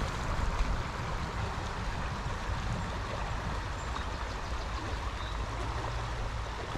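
Shallow stream water running steadily over rocks in a riffle, with a low rumble underneath.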